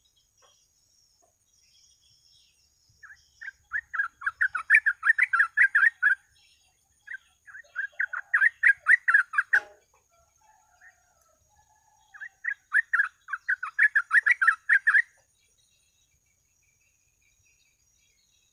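Yellow-vented bulbul (trucuk) singing: three bouts of rapid, chattering repeated notes, each lasting about three seconds, with short pauses between them. A faint steady high whine runs underneath, and there is a single click near the end of the second bout.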